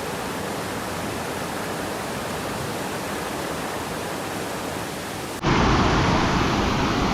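Steady rush of falling water, an even hiss with no distinct sounds in it. About five seconds in it cuts abruptly to a louder, deeper rush.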